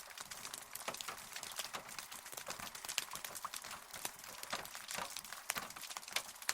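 Rain falling, with many separate close drops tapping irregularly on a hard surface over a soft steady hiss.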